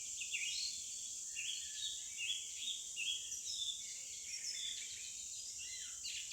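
Birds chirping and singing, many short calls overlapping throughout, over a steady high hiss.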